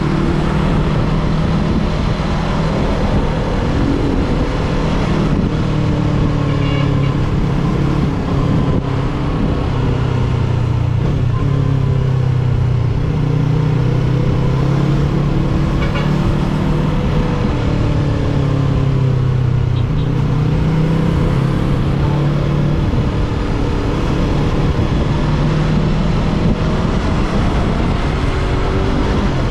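Yamaha R3 parallel-twin motorcycle engine running under way, its note mostly steady with small, slow rises and falls in pitch as the throttle opens and eases.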